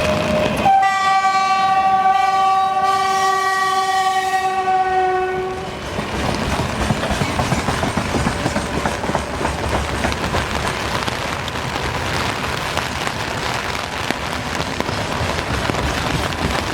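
2ES5K 'Ermak' electric locomotive sounding its horn in one long blast of about five seconds, the pitch sagging slightly at the end. Then comes the steady rumble and wheel clatter of its freight train running past.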